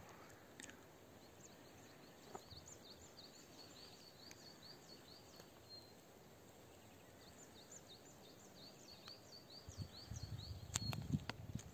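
Faint, rapid high-pitched chirps repeating several times a second over a quiet background. A low rumble comes in near the end.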